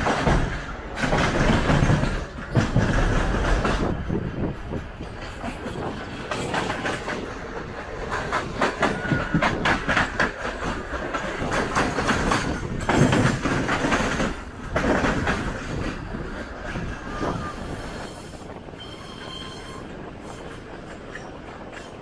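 Electric multiple-unit suburban train running, its wheels clattering over rail joints. Around the middle a second EMU passes close on the next track, a dense burst of rapid clatter, and the sound eases off near the end.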